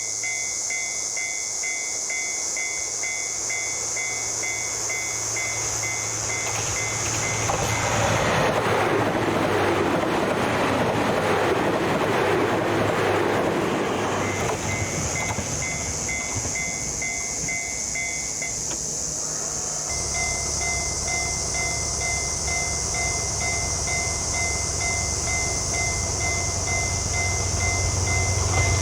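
Level-crossing warning bell ringing in a steady quick repeat as a diesel train passes over the crossing. The train's rushing rumble swells about a third of the way in and fades out a few seconds later. The bell pauses briefly, starts again, and a low diesel rumble from another train grows near the end.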